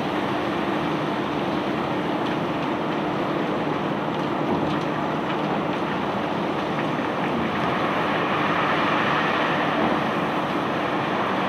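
Unloading machinery on a cobblestone barge: an engine hum under a continuous rushing noise, with a few faint ticks.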